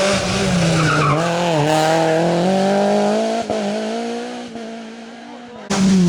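Rally car engine revving up and down through a hairpin, with a short tyre squeal about a second in. The engine note then fades as the car pulls away, and near the end an abrupt cut brings in another car's engine, loud.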